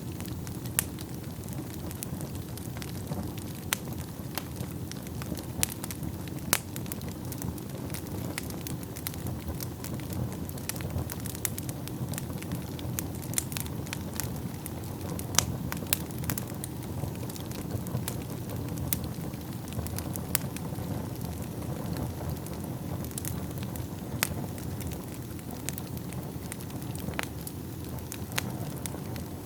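Wood fire burning in a fireplace: a steady low rumble of flames with irregular sharp crackles and pops of burning logs, a few louder pops among them.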